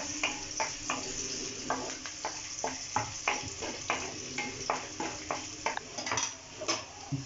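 Garlic, ginger and green chillies sizzling in hot coconut oil as they are sautéed, with a steady hiss. A spoon stirs them and scrapes and clicks against the pan about two or three times a second.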